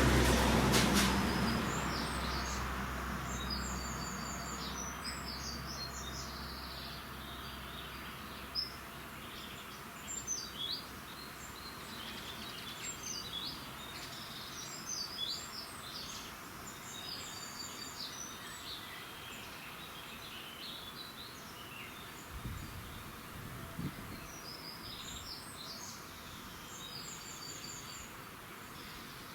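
Several songbirds singing in a dawn chorus: short, high chirping phrases coming and going throughout. At the start, a loud low rumble fades away over the first few seconds.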